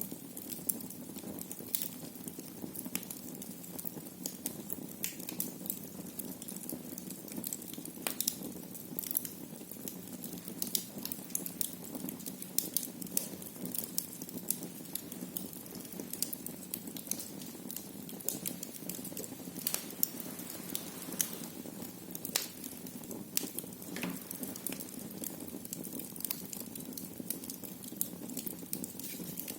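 Wood fire burning in a fireplace, crackling with frequent small sharp pops scattered irregularly over a steady low hiss.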